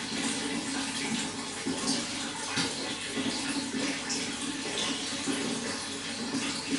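Running water pouring and splashing steadily, with a continuous rush and many small splashes.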